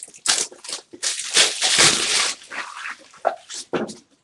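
A dog barking and whimpering in several short bursts.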